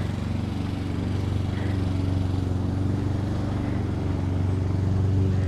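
A small engine running steadily with an even, low drone.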